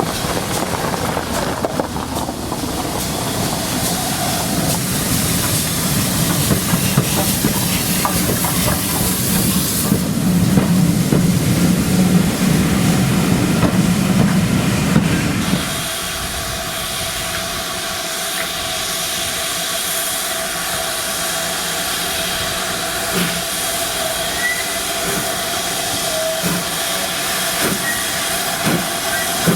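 A train running on the track with a low rumble. About halfway in this cuts off abruptly, and a steam locomotive is heard hissing steam with a faint steady tone and a few light clicks.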